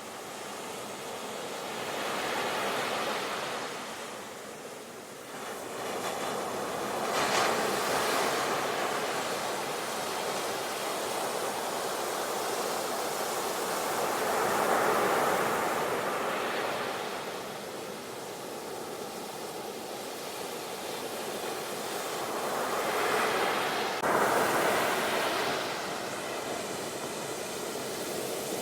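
Sea waves breaking and washing up, the surf swelling and falling every few seconds.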